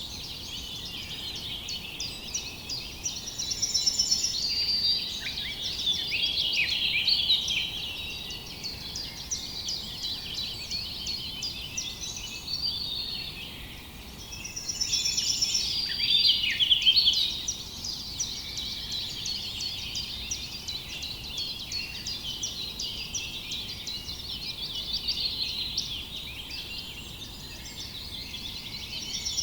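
Chorus of many small songbirds chirping and twittering at once, dense overlapping high calls that swell louder a few seconds in and again about halfway through.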